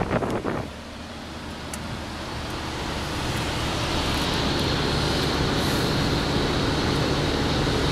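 Cabin noise inside a moving 2011 Fiat Doblò with the windows closed: road and wind noise that builds over the first few seconds and then holds steady, with a hiss in the upper range joining about halfway. It is the wind noise the owner counts as a fault of the car. A brief loud rush comes right at the start.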